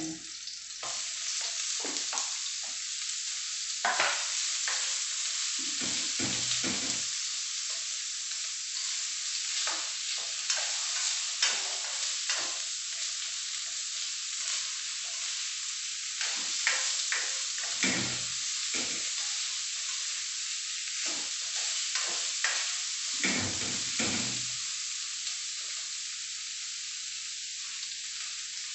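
Chicken pieces sizzling in hot oil with garlic and onion in a stainless steel wok: a steady frying hiss while the meat is sautéed. Scattered knocks and scrapes come from a spatula stirring against the metal wok.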